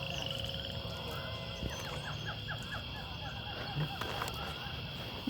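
A bird calling a quick run of short, falling notes about two seconds in, over a steady outdoor background hum.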